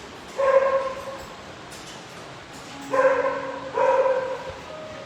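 Shelter dog barking from its kennel: three drawn-out barks, one about half a second in and two in quick succession about three seconds in.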